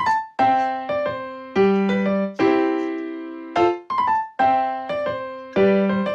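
Background piano music: struck chords and notes that each ring and fade, in a slow, gentle rhythm.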